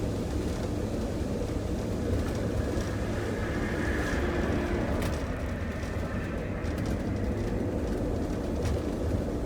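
Steady engine and road rumble of a moving vehicle heard from inside the cab, with a faint click about five seconds in.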